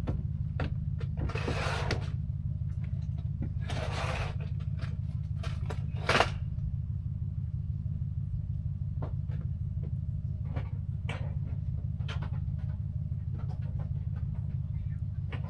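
A steady low motor drone with a fast, even pulse, like a small engine running, with a few short rustles and clicks of handling over it in the first half.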